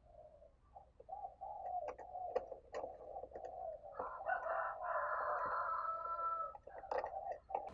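Spotted dove cooing in a run of low, hollow notes, with a rooster crowing over it for a couple of seconds midway.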